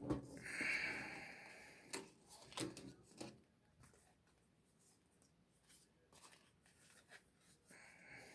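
Trading cards and their packaging being handled: a brief rustle, then a few light clicks and taps, fading to faint handling noise.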